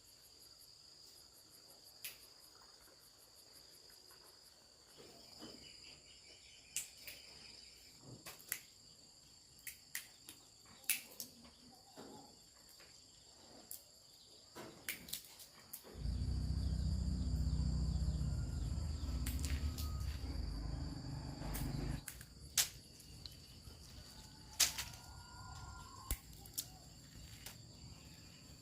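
Insects chirring in a steady high drone, with scattered sharp clicks and knocks. About two-thirds of the way through, a loud low rumble comes in for around six seconds and then stops suddenly.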